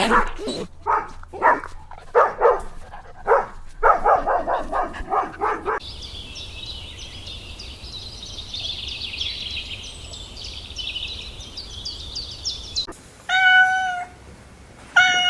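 Domestic cat meowing twice near the end, two clear drawn-out meows about a second and a half apart. Before them come about six seconds of short, repeated animal calls, then several seconds of high, rapid chirping.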